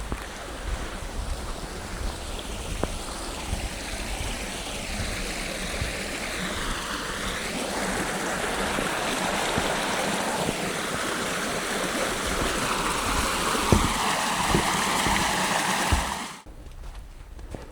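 Spring-thaw meltwater running in a stream: a steady rush of water that grows louder, with slow sweeping shifts in tone. It cuts off suddenly near the end.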